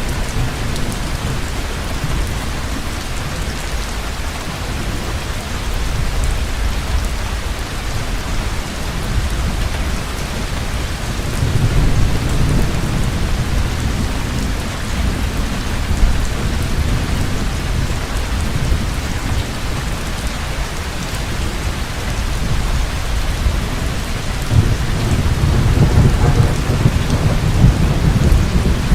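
Heavy rain falling steadily, with thunder rumbling low underneath that swells several times, strongest near the end.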